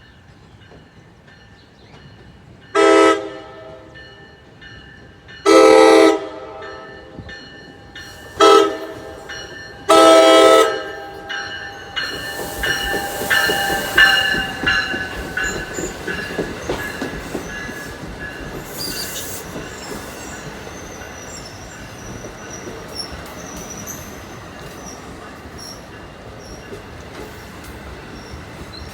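An NJ Transit train horn sounds four blasts, two long, one short and one long: the grade-crossing signal. The train then passes, wheels squealing on the rails over a steady clatter that slowly fades.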